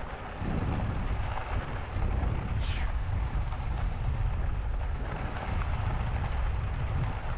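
Wind buffeting the camera microphone and tyre rumble on an e-bike riding along a trail. A brief high falling squeak is heard about two and a half seconds in.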